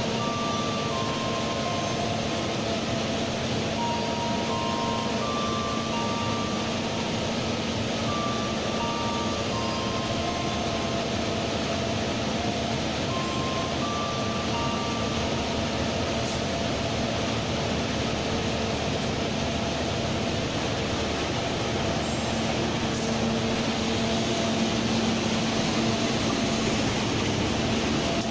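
Diesel-hauled passenger train pulling into the station: a steady engine hum and running noise that grows louder near the end as the locomotive and cars pass. Over the first half, a short tune of electronic beeping tones plays above it.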